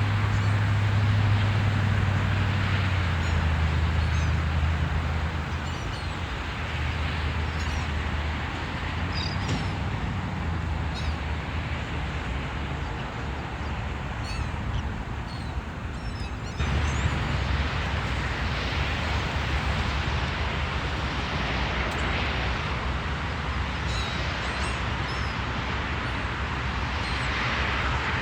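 Birds calling now and then in short, faint, high calls over a steady outdoor rush with a low rumble. The background changes abruptly about two-thirds of the way through.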